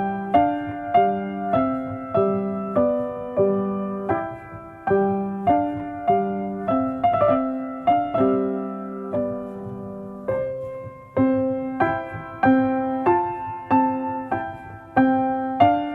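Gentle solo piano music: a slow, even run of single struck notes about two a second, each note fading before the next.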